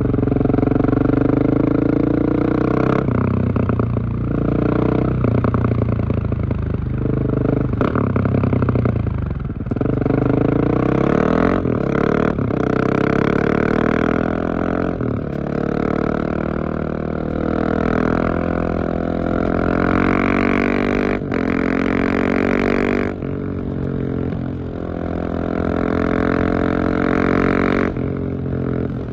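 Husqvarna 701 Supermoto's single-cylinder engine running through a LeoVince exhaust with the dB-killer fitted, revving up and down again and again, with a few sharp cracks along the way.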